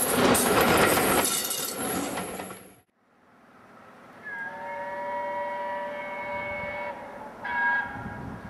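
Passenger coaches of a train passing close by at speed, a loud rush of wheels on the rails that fades away over about three seconds. Then, much fainter, a distant multi-note whistle held for about two and a half seconds, followed by a short blast.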